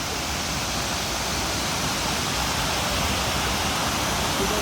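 Wachirathan waterfall: the steady, loud rush of a large waterfall close by, a dense even noise with no break.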